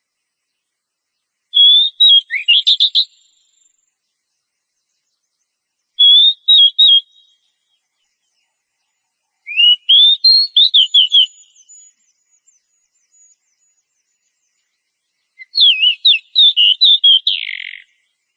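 Oriental magpie-robin (kacer) singing: four short phrases of quick whistled and warbled notes, each a second or two long, with silent gaps between them.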